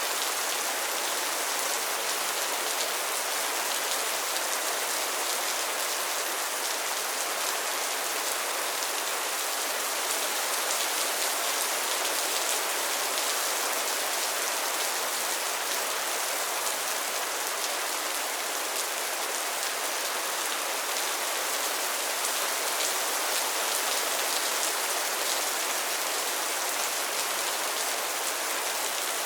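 Steady rain falling on a pond and its lily pads: a dense, even patter of drops on water and leaves that holds at one level throughout.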